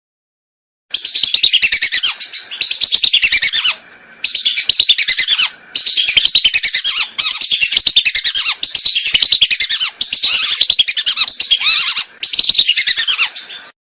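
Whistling ducks (belibis) calling. About a second in they start a run of fast, shrill whistled notes, and the phrases keep dropping in pitch. The calls come in bursts of a second or two, with short breaks between them.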